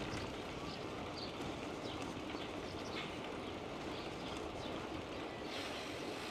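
Small birds chirping again and again over a steady low rush of wind and riding noise.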